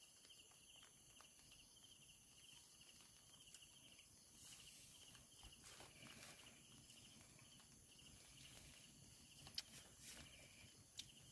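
Faint night insects: a steady pulsing cricket-like trill with a high, continuous insect whine above it, and a couple of faint clicks near the end.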